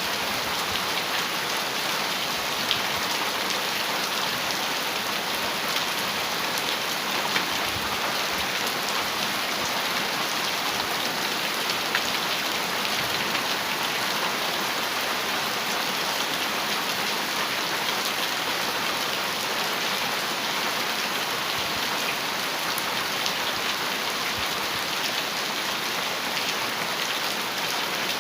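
Heavy rain falling steadily on a metal roof: a dense, even hiss with a few sharper drop hits standing out now and then.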